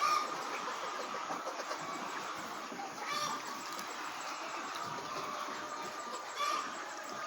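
A flock of Lohmann Brown layer hens chattering and clucking as a dense steady murmur, with a few louder calls standing out at the start, about three seconds in and again near the end.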